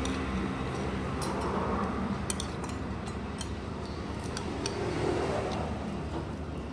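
Scattered sharp clinks and clicks of cutlery against dishes during a meal, over a steady low hum.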